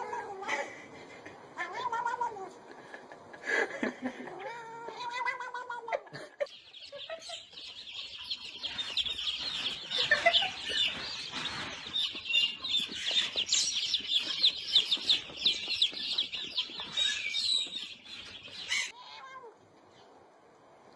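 A cat meowing three times, each meow rising and falling in pitch. About six seconds in the sound changes abruptly to a long stretch of dense, rapid high-pitched chirping that stops near the end.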